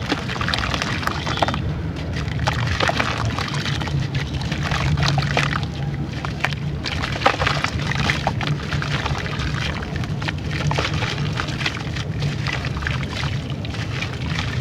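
Dried sandy clay crumbling and crackling in water, a dense run of small crackles and fizzing pops over a steady low hum.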